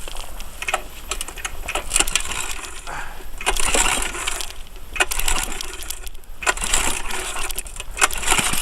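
Cold start attempts on a 1975 Ariens snowblower engine in freezing cold: repeated cranking surges of about a second each, with sharp metallic clicks and rattles between them, before the engine is running.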